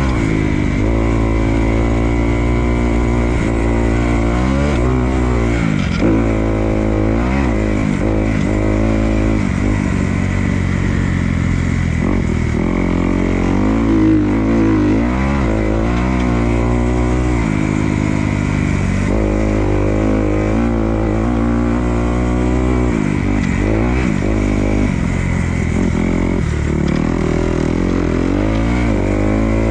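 Dirt bike engine on a motocross track, revving up and dropping back over and over as the rider works through the lap, over a steady low rumble.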